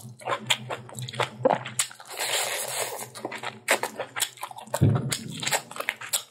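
Close-up eating sounds: wet chewing and mouth clicks as chicken leg and rice are eaten by hand. There is a longer hissy stretch about two seconds in and a dull thump near the end.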